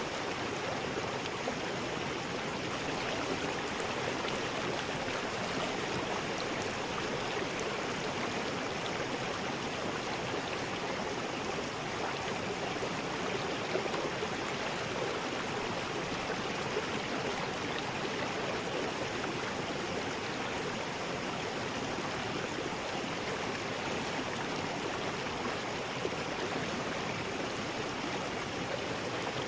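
River rapids: water rushing and splashing over rocks in a steady, unbroken wash.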